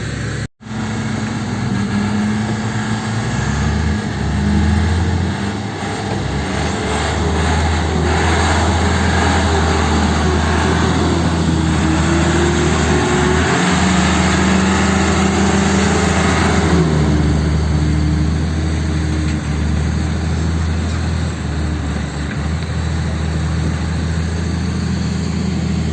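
Heavy diesel engines running steadily, working harder and louder for several seconds in the middle, with the pitch shifting as they pull, then settling back. There is a brief break in the sound just after the start.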